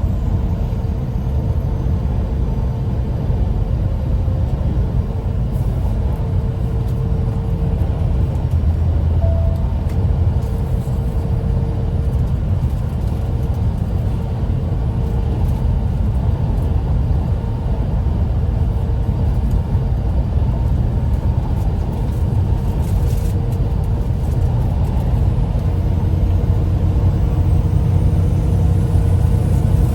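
A car driving at a steady speed: a loud, even low rumble of engine and road noise.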